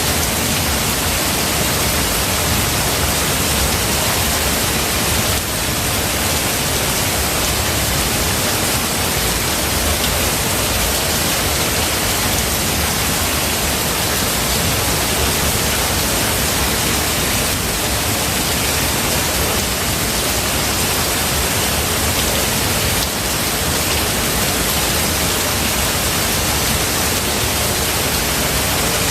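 Heavy rain falling steadily as a dense, even hiss, with no thunder heard.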